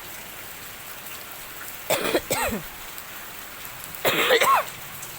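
Steady rain falling and splashing on surfaces, with two short vocal sounds from a person about two and four seconds in.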